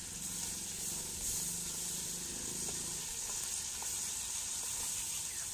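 Chicken with tomatoes frying in an open karahi over a wood fire: a steady sizzle as it is stirred with a spatula.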